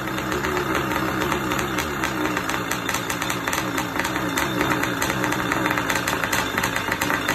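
Kawasaki 650 X2 two-stroke engine running at idle on a test run. The idle is steady in level but wavers slightly in pitch, with a fast crackling beat.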